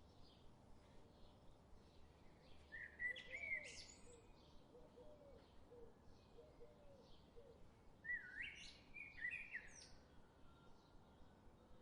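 Birds chirping, faint, with two clusters of quick sweeping calls about three seconds and eight to nine seconds in, over a low hiss.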